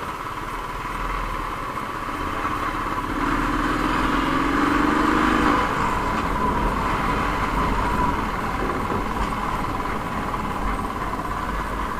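Motor vehicle noise: a vehicle passes, swelling about three seconds in and easing off near six seconds, over a steady high-pitched drone.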